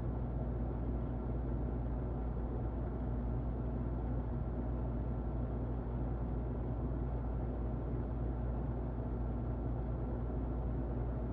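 Muffled electric fan running steadily: an even, low whoosh with a faint hum under it.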